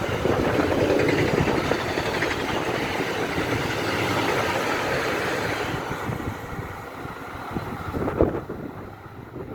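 Car-transporter freight train rolling past: a steady rumble of wheels on the rails that fades away over the last few seconds as the train goes by, with a single knock about eight seconds in.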